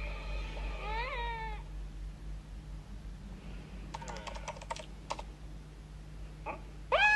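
A cat meows once, a rising-and-falling call about a second in. A few sharp clicks follow, and a loud held call starts right at the end.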